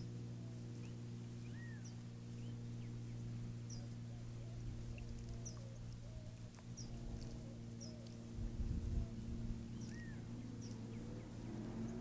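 Small birds chirping: short high chips about once a second, with a couple of lower arched whistled notes, over a steady low electronic hum. A brief low rumble comes about two-thirds of the way through.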